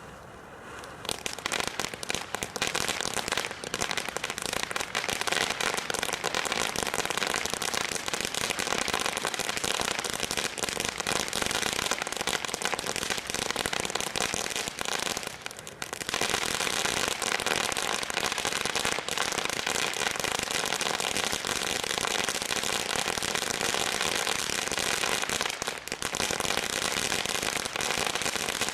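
A consumer firework from a Bright Star Giant Bonfire Selection Box going off with dense, continuous crackling and popping. It starts about a second in, eases briefly near the middle, then carries on.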